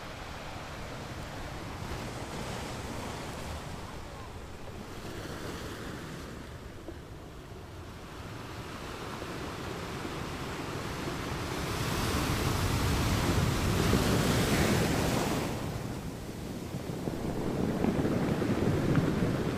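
Stream water running over rocks and small cascades, with wind buffeting the microphone in gusts that make it loudest about two-thirds of the way through and again near the end.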